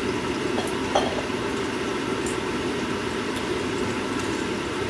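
Sausages sizzling steadily in a frying pan on the stove, with a small click about a second in.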